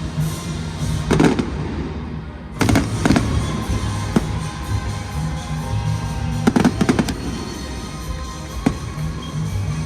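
Fireworks show: aerial shells bursting in irregular bangs, one about a second in, a cluster near three seconds and a heavier cluster around six and a half to seven seconds, over music playing alongside the show.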